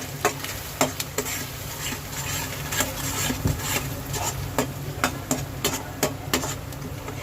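Ground onion paste frying in hot oil in a kadhai, sizzling, while a spoon stirs and scrapes it against the pan in irregular clicks and knocks. A steady low hum runs underneath.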